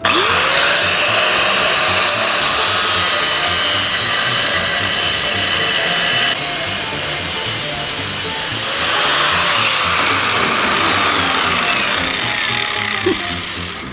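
Electric power tool spinning up and cutting through a stainless steel exhaust U-bend. The loud, steady cutting noise holds for about ten seconds, then eases off over the last few seconds as the cut finishes.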